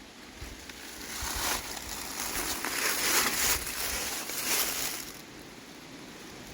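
Dry leaves and brush rustling and crunching underfoot as someone pushes through undergrowth. It grows louder about a second in and eases off near the end.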